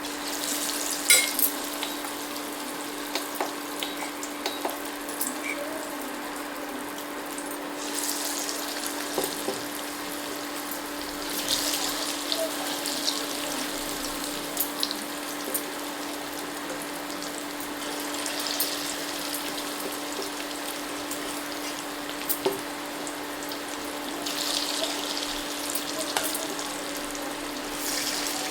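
Chicken pakora frying in hot oil: a steady sizzle that swells several times, with scattered light clicks and knocks.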